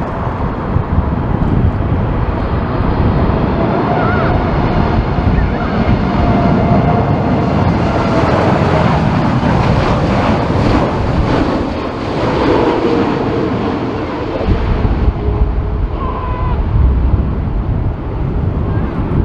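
Boeing 747 jet passing low on its landing approach, its engine noise swelling to a peak about ten seconds in and then easing, with a faint whine sliding down in pitch. Heavy wind buffets the microphone throughout.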